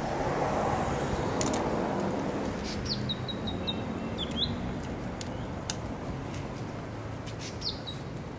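Outdoor birdsong over steady background noise: a bird gives a quick run of short high chirps about three seconds in and calls again near the end.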